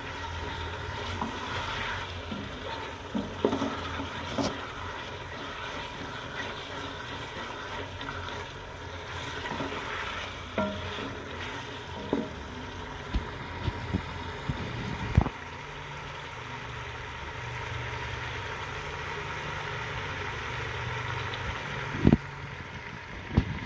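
Potato chunks and boiled eggs frying in masala in an aluminium pot, a steady sizzle, with a wooden spoon stirring and now and then knocking against the pot's side. This is the bhunai stage, browning the potatoes and eggs in the spice paste before water goes in.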